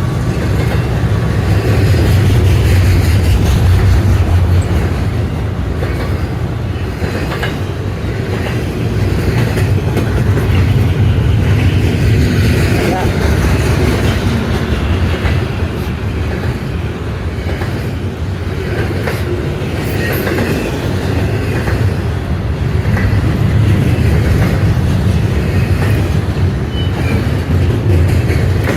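Freight train rolling past, its cars' wheels rumbling and clattering steadily on the rails, swelling and easing in loudness.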